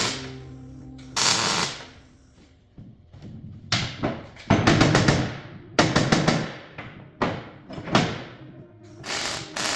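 Several sharp metal bangs and clanks, each ringing briefly, the loudest cluster in the middle: steel parts being knocked into place while fitting them up.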